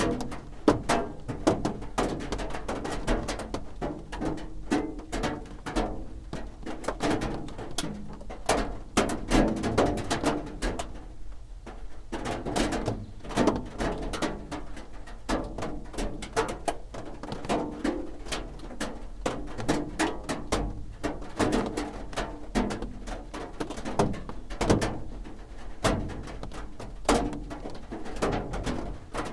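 Raindrops drumming on a roof: a dense, irregular patter of taps and knocks of varying strength, some hitting harder and louder.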